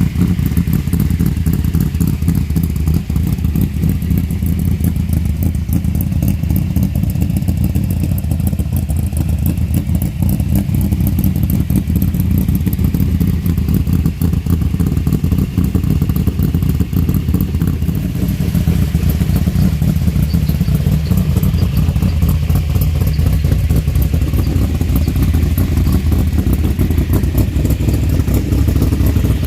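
Newly installed engine with headers in a 1955 Chevy sedan delivery, running steadily with a dense low exhaust pulse; the sound shifts slightly about two-thirds of the way through.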